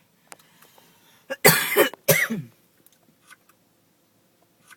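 A person coughs twice, about half a second apart, while smoking.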